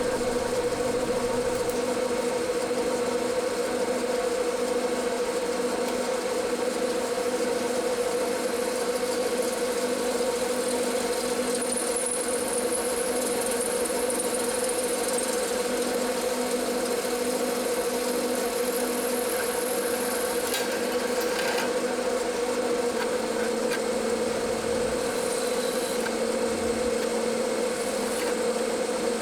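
Electric drill motor running at a steady speed, drilling holes in a stainless steel bracket; one even hum.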